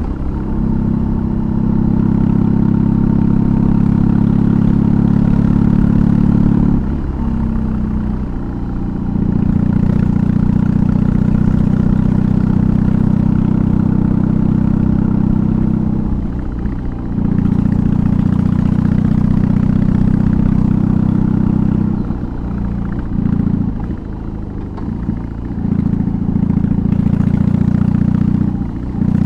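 BMW R18's big air/oil-cooled boxer twin through a custom exhaust, running steadily under load while riding. The engine note eases off and changes pitch briefly about a quarter of the way in, around the middle, and for a few seconds near the end, then picks up again.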